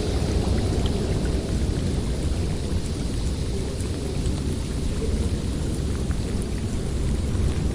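Snowstorm wind blowing steadily with a deep, continuous rumble; a higher hiss of gusting eases off just after the start and builds again near the end.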